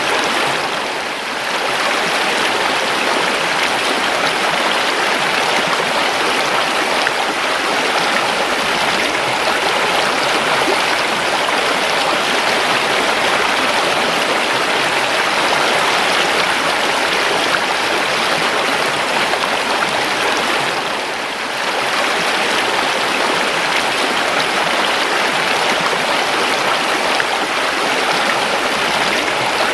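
A river or stream flowing, a steady rush of running water that dips briefly in level twice, about a second in and again about two-thirds of the way through.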